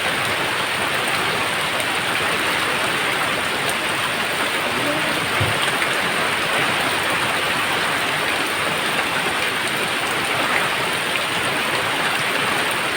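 Steady heavy rain falling, a constant even hiss of drops with no thunder clap.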